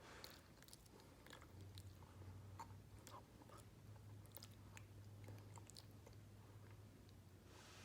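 Faint chewing and wet mouth clicks from a person eating, over a faint steady low hum.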